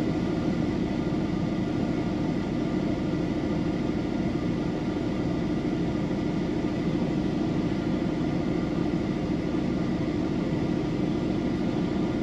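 Peterbilt 389 semi-truck's diesel engine idling, heard from inside the cab as a steady, even hum.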